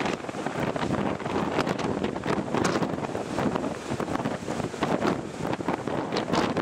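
Hurricane wind gusting across the microphone: a loud, uneven rushing noise that swells and drops from moment to moment.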